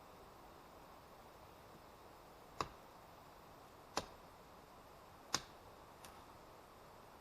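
Three sharp knocks about a second and a half apart, then a fainter fourth one soon after, over a faint steady hiss.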